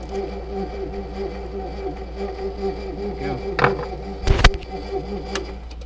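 A shop machine's electric motor runs with a steady, pulsing hum. Two sharp knocks come about three and a half and four and a half seconds in, the second louder with a heavy thud, as a bearing is forced into place on the tool.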